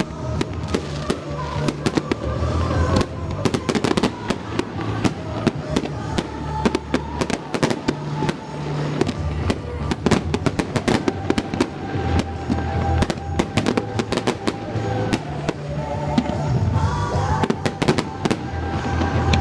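Fireworks bursting and crackling in rapid, irregular succession, many sharp bangs throughout, over Christmas pop music played on the show's loudspeakers.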